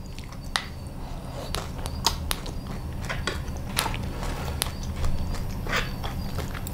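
A person chewing crispy fried rice-flour cake (bột chiên) with egg, giving irregular crunches and crackles.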